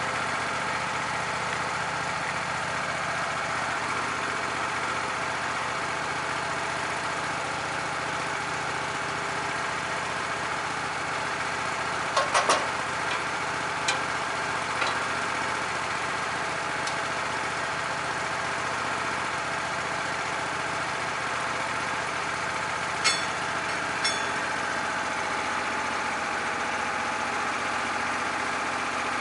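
Engine idling steadily, with a few short knocks or clanks about halfway through and twice more near the end.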